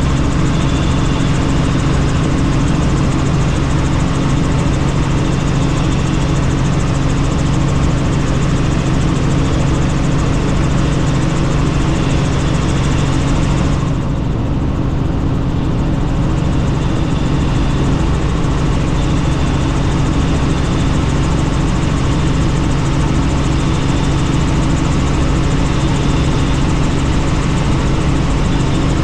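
Helicopter in flight, heard from inside the cabin: a steady, loud drone of rotor and turbine engine with rushing air. The higher part of the sound briefly dulls about halfway through.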